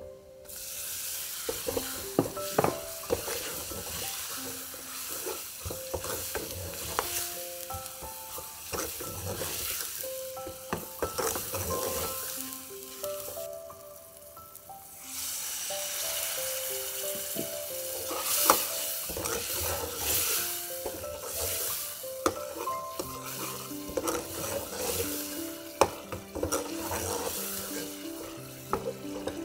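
Chopped onion, garlic, ginger and spices sizzling in oil in a metal saucepan, stirred with a metal ladle that scrapes and clicks against the pot. The sizzle drops away briefly near the middle, then comes back. Soft background music with held notes plays under it.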